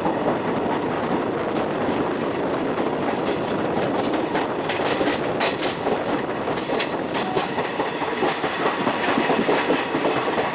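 Moving express train heard from the side of the coach: a steady rush of running noise with the clickety-clack of the wheels over rail joints. The clicks come thicker from about three seconds in.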